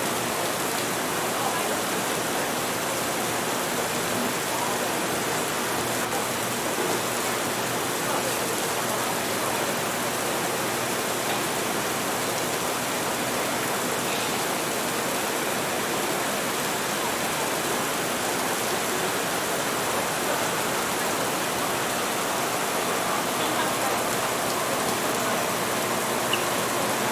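Steady, even rain, with a faint murmur of café chatter underneath.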